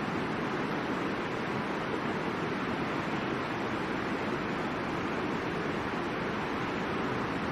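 River water rushing steadily, an even roar of flowing water with no breaks.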